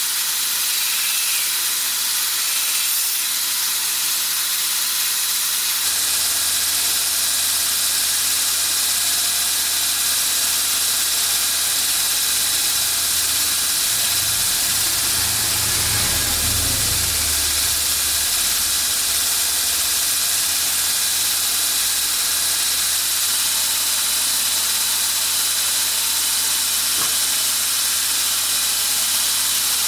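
A steady loud hiss, strongest in the high register. A low machine hum comes in about six seconds in, and a deeper rumble swells and fades around the middle.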